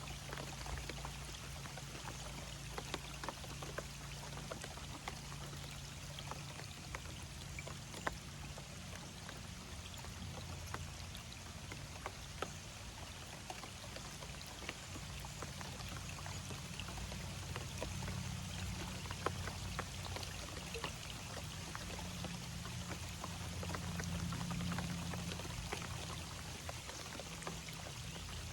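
Water splashing and trickling steadily, with many small sharp drip-like clicks over a low rumble.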